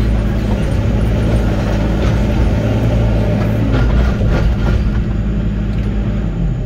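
Diesel engine of heavy earthmoving equipment running steadily under the operator, with a few clanks about two to five seconds in. Its note drops a little near the end as the engine speed comes down.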